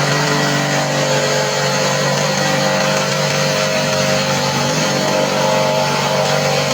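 A motor running steadily, a constant hum with a hiss over it that does not change in speed or level.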